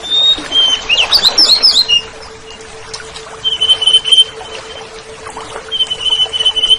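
Oriental magpie-robin (kacer) singing: a quick run of varied, sliding chirps for about two seconds, then two long, level whistled notes.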